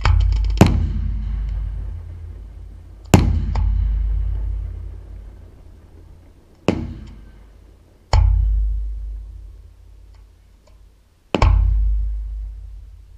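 Aerial firework shells bursting: five loud bangs at uneven gaps of one to four seconds, each followed by a long low rumbling echo that dies away, with a few faint crackles in between.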